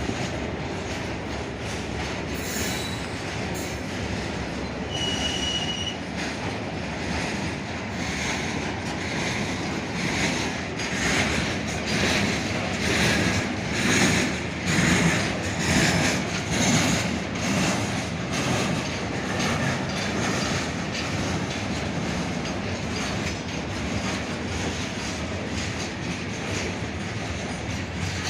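Train moving through a station: a steady rumble with the wheels clattering over rail joints in a rhythmic run, loudest around the middle. There is a brief high wheel squeal about five seconds in.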